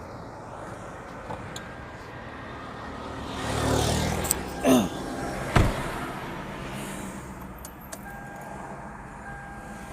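A 2004 Toyota Camry that won't crank: one sharp click as the key is turned, with no cranking or starting, over a steady low hum. The click without cranking is the no-crank fault the owner is chasing, with the battery as the suspect.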